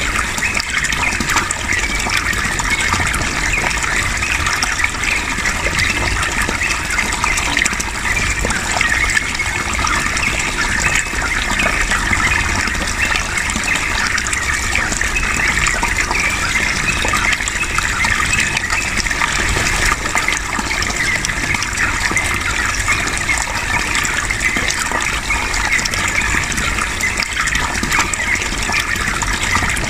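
Yellow-vented bulbul (trucukan) giving fast, chattering song phrases over a steady rush of flowing water, the two mixed as a continuous bed with no pauses.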